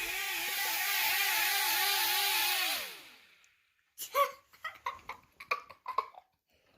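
Mini drone's tiny propeller motors whining with a pitch that wobbles up and down several times a second, then falling in pitch and spinning down about three seconds in. A run of short sharp sounds follows about a second later.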